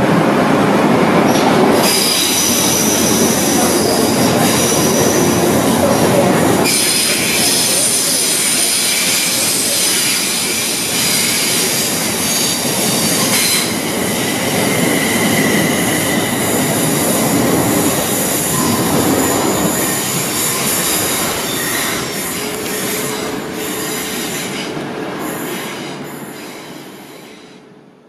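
Electric multiple unit running non-stop through a curved station platform: a loud rolling rumble of wheels on rail with steady high-pitched wheel squeal. It fades away over the last few seconds as the train draws off.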